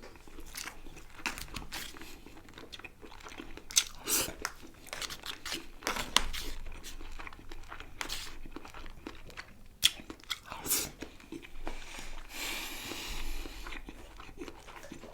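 Close-miked eating: a person biting and chewing food, with irregular crunches, a few sharper bites about four, six, ten and eleven seconds in, and a longer stretch of chewing noise near the end.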